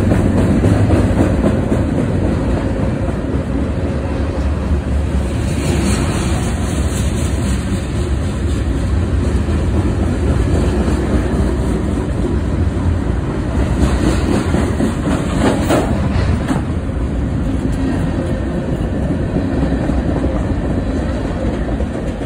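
Freight cars (empty gondolas and boxcars) rolling past on the rails: a steady, heavy low rumble of steel wheels on track. It grows sharper and higher-pitched for a moment about six seconds in and again around fourteen to sixteen seconds in.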